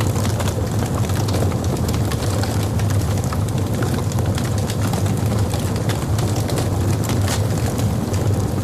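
Wood logs burning in a fireplace: a steady low rumble of the fire with frequent sharp crackles and pops throughout.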